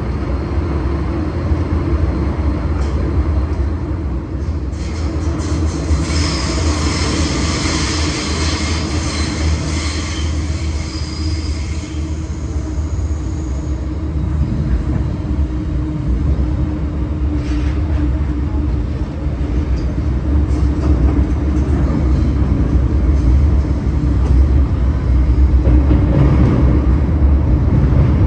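MTR M-Train electric multiple unit running along the track: a steady, loud rumble of wheels and running gear with a constant hum. From about six to twelve seconds in, a higher hiss joins it.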